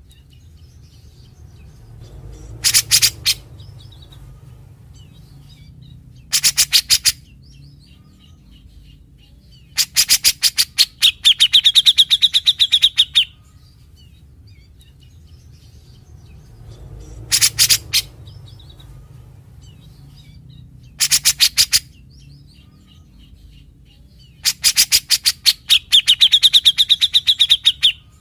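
Grey-cheeked bulbul (cucak jenggot) calling in bursts of fast, sharp chattering notes. The longer bursts run into a ringing trill, the rapid chatter that bird keepers call besetan. The same sequence of short and long bursts comes round twice.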